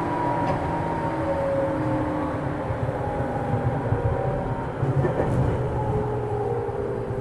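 Interior running sound of a JR East 205-series electric train's motor car: the whine of its externally fan-cooled traction motors and gears falls slowly in pitch over steady wheel-and-rail rumble. The train is slowing for a station stop.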